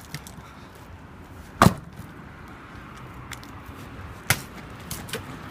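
Axe splitting firewood: two loud sharp chops about two and a half seconds apart, with a few lighter knocks around them.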